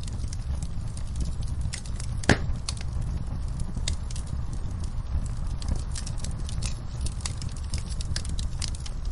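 Campfire burning: wood crackling with scattered sharp pops over a steady low rumble, with one louder pop about two seconds in.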